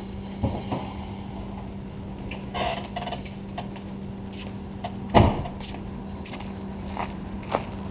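1997 Mustang GT's 4.6-litre V8 idling through Flowmaster 40 series mufflers after a rev, a steady hum with scattered light clicks and one sharper knock about five seconds in.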